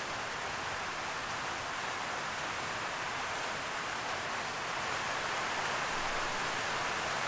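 Heavy rain coming down hard on a corrugated metal shed roof, a steady even hiss.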